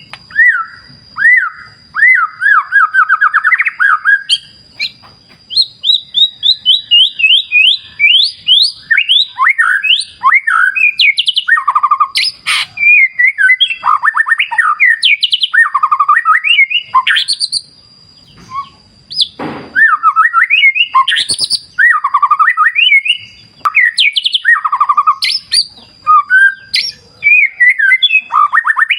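White-rumped shama (murai batu) singing a fast, varied song of rising and falling whistled notes and trills with almost no pauses. Behind it runs a thin steady high tone that stops near the end.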